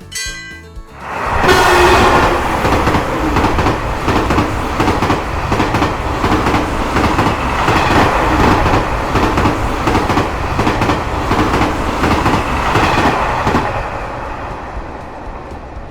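Level-crossing bell ringing briefly, then a train passes with a steady clatter of wheels over rail joints, fading away near the end.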